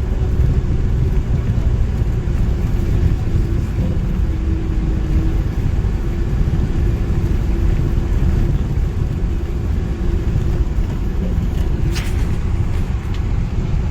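Steady low rumble of a motor vehicle running, with a faint steady hum over it and a single sharp click about twelve seconds in.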